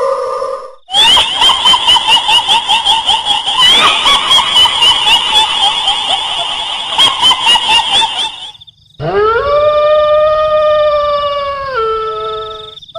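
Kuntilanak ghost sound effect in a shrill, high female-like voice: a rapid, fluttering cackle of laughter for about seven seconds. After a short break comes one long wail that rises, holds, then drops in pitch near the end.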